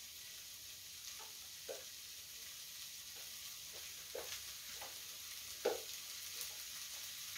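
Ham, vegetables and rice cakes frying in oil in a pan: a steady sizzling hiss with occasional soft pops.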